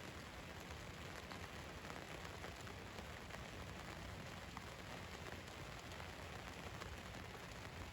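Steady rain falling on a van's roof: an even hiss with scattered faint drop ticks.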